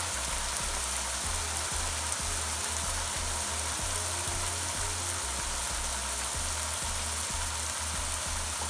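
Onion paste frying in oil in a pan: a steady sizzle.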